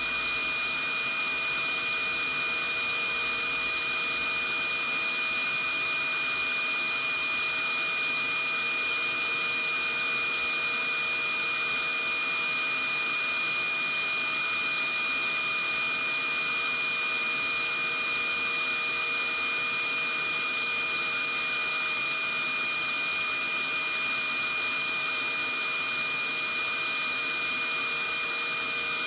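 Vacuum cleaner running steadily: an even rushing noise with a constant high-pitched motor whine, unchanging throughout.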